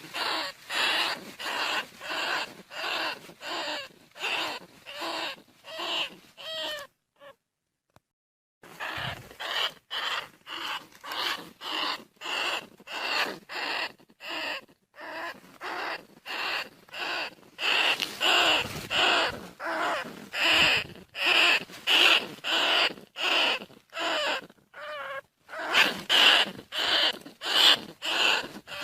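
Bandicoot rat calls played as a hunting lure: short squeaky calls repeated about twice a second, with a pause of about a second and a half a quarter of the way in.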